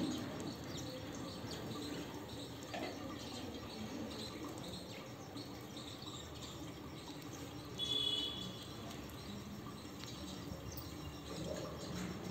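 Sparrows chirping over a steady wash of background noise, with light water sounds from their bathing. One brief, higher call stands out about eight seconds in.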